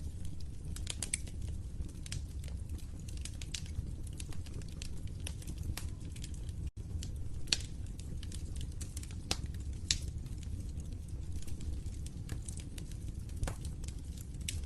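Wood fire crackling in a fireplace: irregular sharp pops and snaps over a steady low rumble of the flames. The sound cuts out for an instant about seven seconds in.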